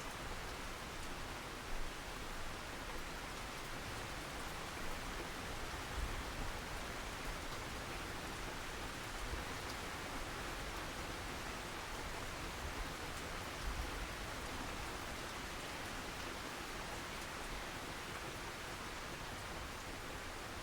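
Steady rain falling, an even hiss of drops, with a few soft low thumps scattered through it.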